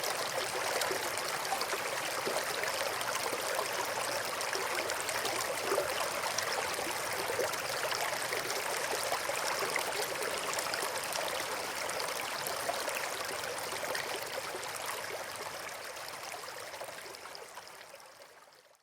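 River water flowing and babbling over rocks: a steady rushing, splashing hiss that fades out over the last few seconds.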